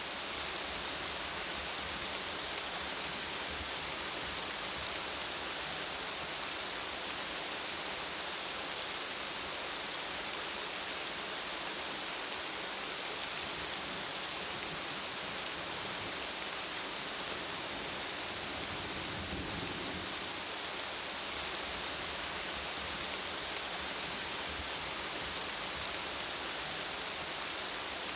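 Steady rain falling, an even hiss with no breaks. A brief low rumble swells about two-thirds of the way through.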